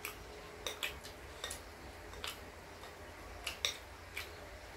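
Soft, irregular clicks and taps of eating utensils against a plate or bowl, about eight in all, over a low steady hum.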